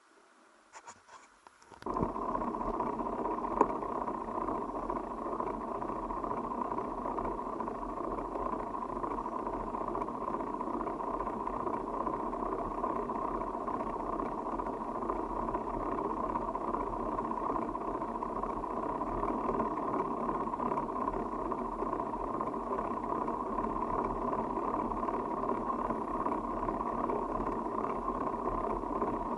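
Steady rushing wind and tyre noise of a bicycle being ridden, picked up by a camera on the ride, cutting in suddenly about two seconds in.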